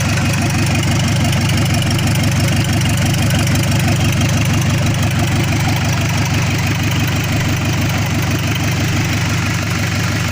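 Mitsubishi Colt Diesel PS100 truck's diesel engine idling steadily with an even, rhythmic beat. The engine is worn and due for an overhaul.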